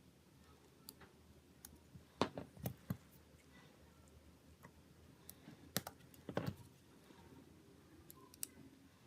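Faint, scattered small clicks and taps from handling a smartphone's parts and small tools, with a cluster of sharper clicks about two seconds in and another about six seconds in.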